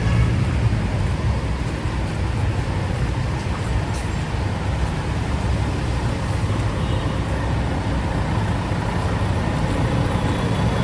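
Steady city road traffic: a continuous low rumble of cars, buses and trucks on a busy avenue.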